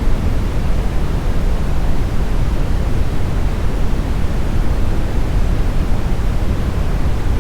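Steady, smoothed brown noise: an even, deep rumbling hiss, loudest in the low end and falling off toward the highs, without changes or events.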